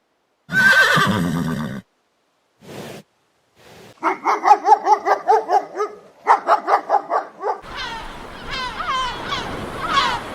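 A string of short animal-call clips. In the middle come two wavering, rapidly pulsed calls of about two seconds each. From near three-quarters of the way through, a run of quick swooping bird calls follows.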